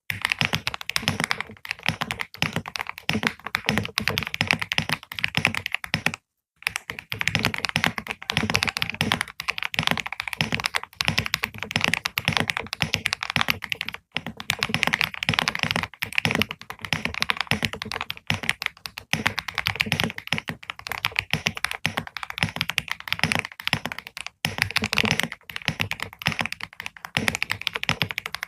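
Continuous fast typing on a computer keyboard: a dense, unbroken run of keystroke clicks, cut by a brief total silence about six seconds in.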